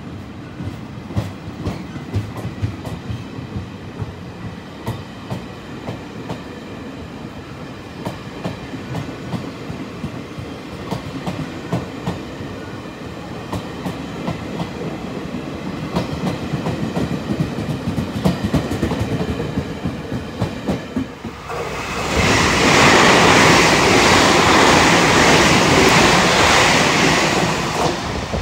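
Taiwan Railway passenger coaches rolling along the platform, wheels clicking and clacking over rail joints above a low rumble. About 22 seconds in, a much louder steady rush of noise takes over for some six seconds and then cuts off.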